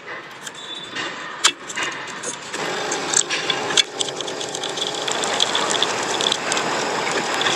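Sharp mechanical clicks and clatter, then from about two and a half seconds in a steady running noise with further clicks over it.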